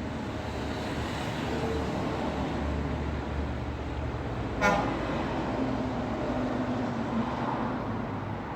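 Steady road traffic noise of passing vehicles, with one short horn toot about halfway through.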